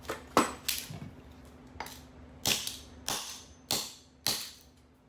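Hard bits of a remote control shredded in a garbage disposal knocking and clattering against the metal of the disposal and sink: about eight sharp knocks, irregularly spaced a half-second or so apart.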